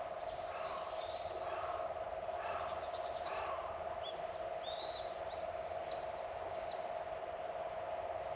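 Garden birds calling over a steady mid-pitched hum. In the first half there are short two-note calls about every half second, with a quick high trill about three seconds in, then three arched high chirps near the middle.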